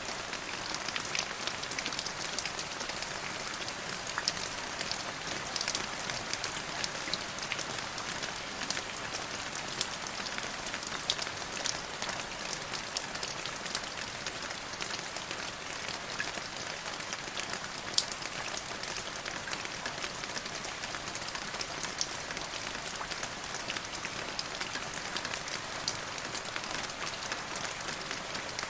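Steady rain falling, with many separate drops pattering on surfaces and an even hiss throughout.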